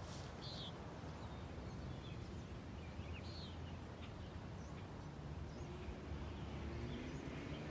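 A few short, high bird chirps, about half a second and three seconds in, over a steady low outdoor rumble of wind.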